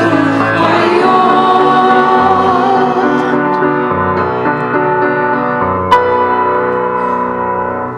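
Christian song with singing and keyboard accompaniment closing on long held final notes, which die away at the very end. A brief click about six seconds in.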